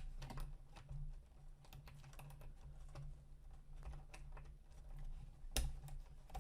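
Light, irregular clicking and tapping of hands routing 3D-printer motor cables and handling plastic parts, with one sharper click about five and a half seconds in, over a low steady hum.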